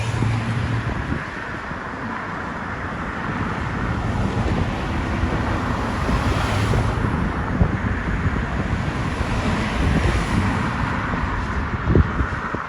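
Jet engine noise from a departing Boeing 787 Dreamliner, a broad steady rush that builds slowly, mixed with wind buffeting the microphone. A brief knock near the end.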